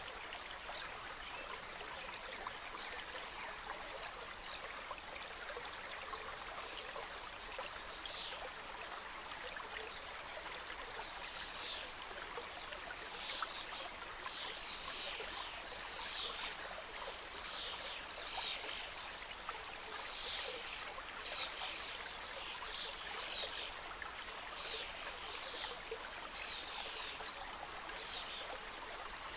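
Mountain stream cascading steadily, with a bird's short high chirps repeating over it, coming thick and fast from about a third of the way in.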